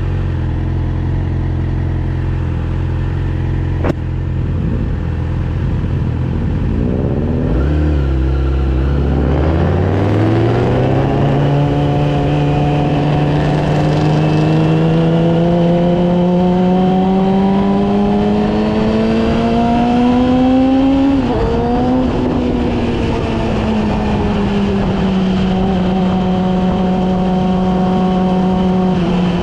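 Yamaha R6's inline-four engine idling steadily, then pulling away about eight seconds in, its pitch climbing steadily for some twelve seconds. Around twenty-one seconds in the note breaks sharply and then eases down to a steady cruising note.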